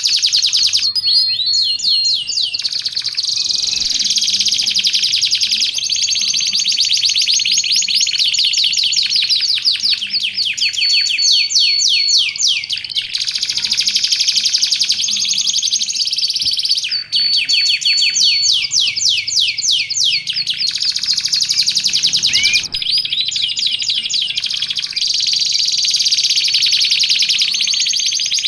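Canary singing on and on in fast trills and rolls, with held whistled notes here and there. The song breaks off twice, briefly, about two-thirds of the way through.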